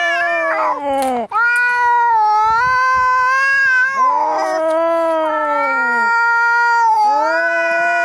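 Angry cats caterwauling: long, drawn-out yowls, each about three seconds, wavering in pitch and dropping off at the end as the next one begins.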